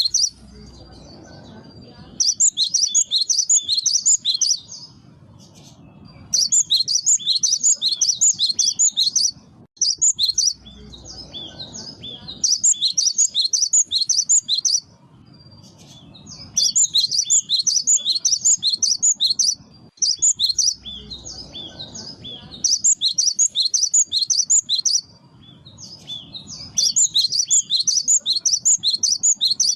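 Cinereous tit (gelatik batu) calling in a lure recording: bursts of rapid, high, chattering chirps two to three seconds long, repeated with short pauses between, about seven times.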